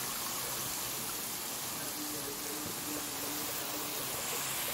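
Potato and tomato masala sizzling steadily in a kadai on a low gas flame, with shredded cabbage just added.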